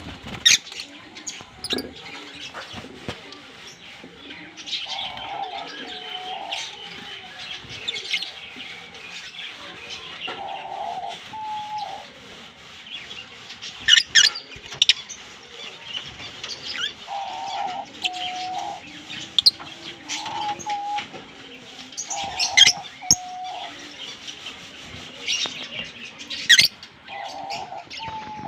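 A pair of Fischer's lovebirds chirping and chattering in short, sharp, high calls, with a few louder shrill calls. A lower two-part call recurs every few seconds beneath the chirping.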